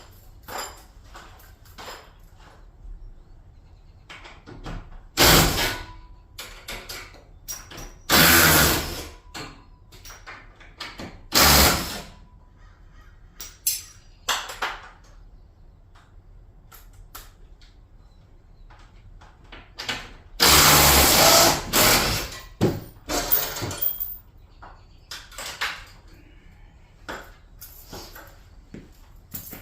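A power tool, likely a drill or driver working on garage door hardware, runs in short bursts of about a second, with clicks and knocks of handling in between.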